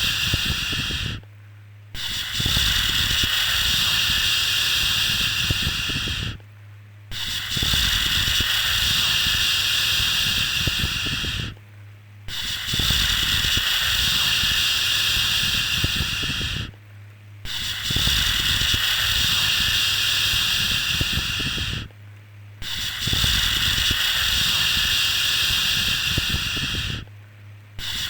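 A long steady "shhh" shushing sound of the kind used to soothe a baby to sleep. It repeats about every five seconds, each shush lasting about four and a half seconds with a brief pause between, and a faint low hum carries on through the pauses.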